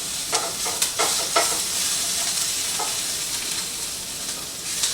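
Onions and bell peppers sizzling as they fry in a pan, with a spatula or spoon scraping and clicking against the pan as they are stirred.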